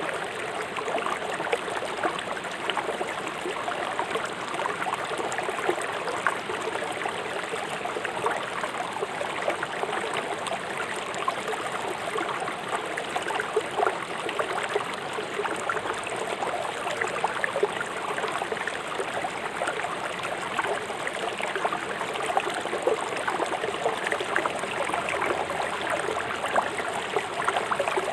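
Fast-flowing river water rushing and splashing over stones, a steady babbling rush.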